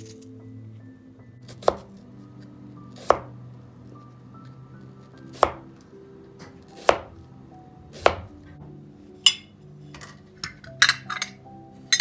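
Knife chopping on a cutting board: single strokes every second or two, then a few quicker, brighter knocks near the end.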